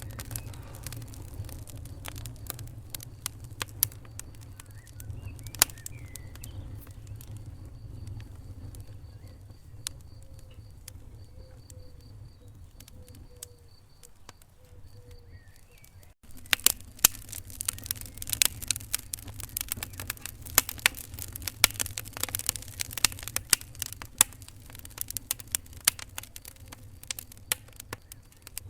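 Wood fire crackling and popping in a fireplace, with scattered sharp pops over a low steady rumble. The sound cuts out briefly about sixteen seconds in, and the crackling comes back denser and louder.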